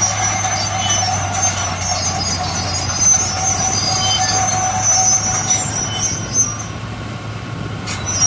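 A heavy earthmoving machine running, its engine droning low under steady high-pitched metallic squealing. The squeal drops out briefly near the end, then returns.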